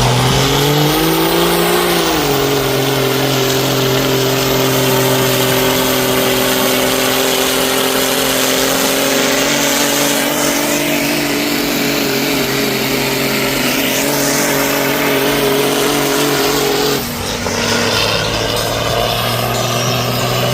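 Mud truck engine revving up over the first two seconds and then held at high, steady revs under load during a truck pull, with a change in the engine note a few seconds before the end.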